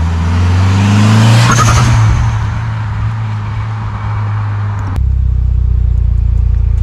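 Mitsubishi Lancer Evolution IX's turbocharged 4G63 four-cylinder revving up, then about a second and a half in a loud hiss as the open HKS SSQV IV blow-off valve vents boost when the throttle closes, fading over the next few seconds. About five seconds in the sound switches abruptly to a steady low engine drone.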